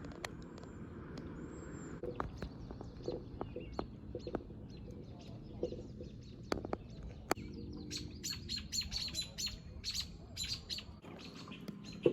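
Birds chirping: a few short high calls, then from about eight seconds in a rapid string of chirps.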